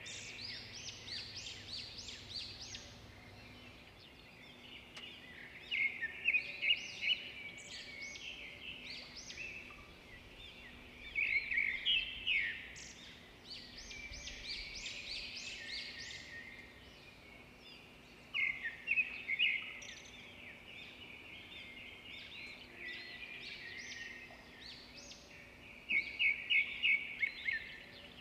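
Birds singing: phrases of rapid, high chirps come about every six seconds, with softer chirping between them over a faint steady hum.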